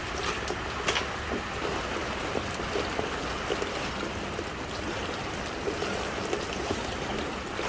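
Heavy monsoon rain pouring down: a steady hiss of rainfall with many small, irregular raindrop taps, a few of them sharper and louder.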